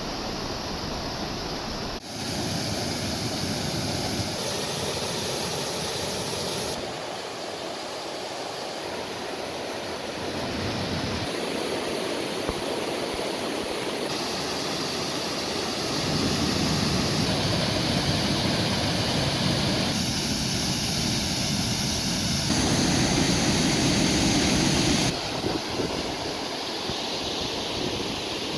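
Rushing water of a mountain creek pouring over small waterfalls: a steady wash of water noise whose depth and loudness change abruptly every few seconds, as the sound jumps from one cascade to another.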